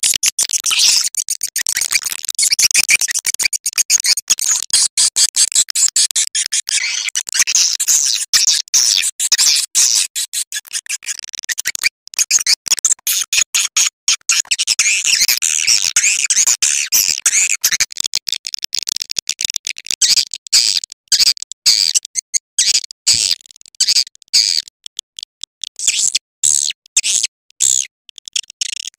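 Recorded swiftlet calls: rapid, high-pitched twittering and clicking chirps packed closely together, breaking into more separate bursts near the end. This is a lure call played in a swiftlet house to draw swiftlets in to roost and nest.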